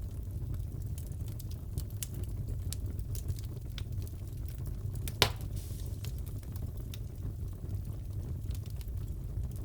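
Fireplace fire crackling: a steady low rumble of burning with scattered small pops and one loud crack about five seconds in.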